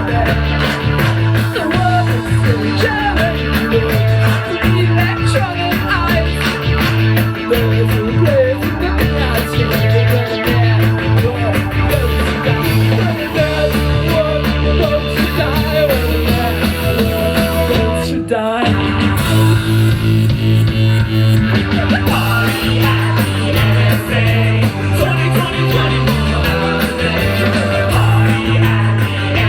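Live band playing an instrumental stretch of an electronic rock song: a repeating bass line with guitar and synth over it. About two-thirds through, the music drops out briefly with a falling sweep, then the bass line comes back in.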